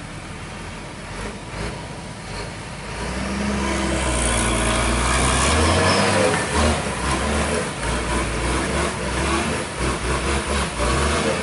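Truck engine running hard under load, growing markedly louder about four seconds in, with a rushing noise over the engine note.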